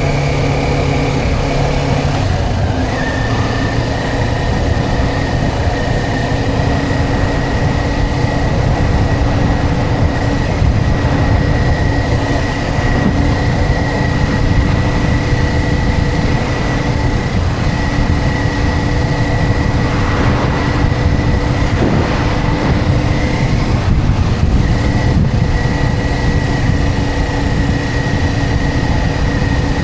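Motorcycle engine running at a steady cruise under heavy wind and road noise; its pitch steps down once about two and a half seconds in, then holds steady.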